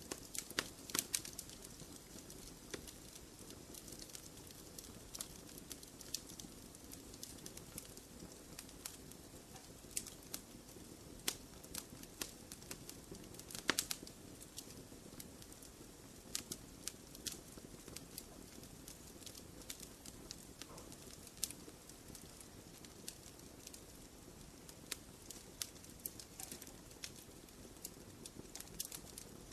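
Wood fire crackling in a fireplace: irregular sharp pops and snaps over a soft, steady low rush of flames, with the loudest pops about a second in and near the middle.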